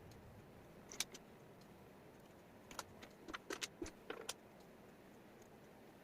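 Wooden jigsaw puzzle pieces clicking as they are handled and set down: a single click about a second in, then a quick run of small clicks in the middle.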